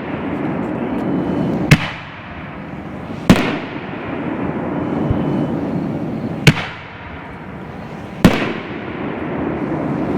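Four loud bangs of 5-inch aerial canister shells bursting, at uneven gaps of one and a half to three seconds. Each is followed by a long rolling echo.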